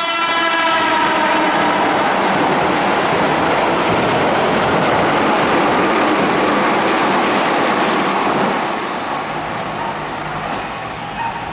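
Keihan 8000-series limited express train running through the station at speed: a steady loud rush of wheels on rail and passing cars, which dies away after about eight and a half seconds. The tail of its warning horn fades out in the first second.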